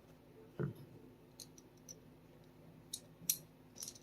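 Small sharp clicks and a dull knock of small pistol parts being handled as the trigger shoe is fitted into the Sig Sauer P365 frame; the loudest clicks come about three seconds in.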